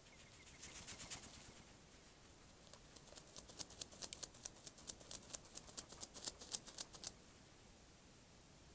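A hedgehog scratching itself close to the microphone: a brief bout of rapid scratching, then a longer bout of about four seconds that stops abruptly.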